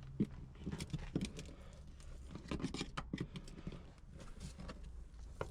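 Scattered small clicks, taps and rustling of hands working at the fuel pump wiring and connectors.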